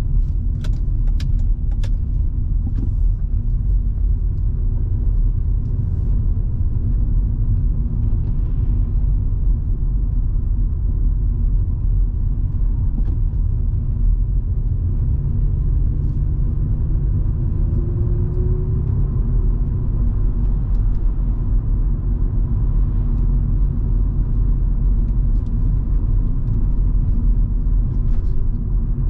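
Volvo V70 2.5T's turbocharged five-cylinder engine and tyre noise while driving, a steady low rumble. The engine note rises about halfway through as the car picks up speed, and there are a few light ticks near the start.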